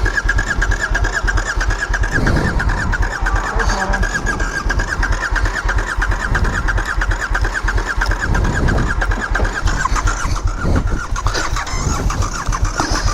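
KTM motorcycle's electric starter cranking the engine in fast, even pulses without it catching, stopping about ten seconds in.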